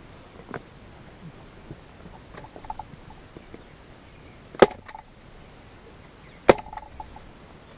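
A staple gun fires twice, about two seconds apart, stapling a leather seat cover onto the ATV seat base. Fainter ticks and handling noises come between the shots.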